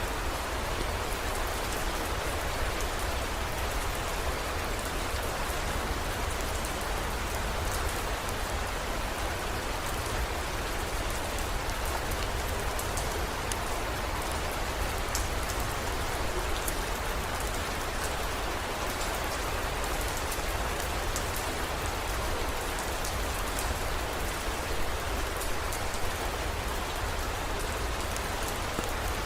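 Steady heavy rain: a dense, even hiss with scattered sharp drop ticks, over a steady low rumble.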